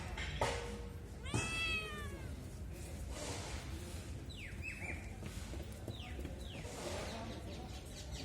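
Cat meowing: one drawn-out meow rising and falling about a second in, then several short, high mews that drop in pitch, over a low steady hum.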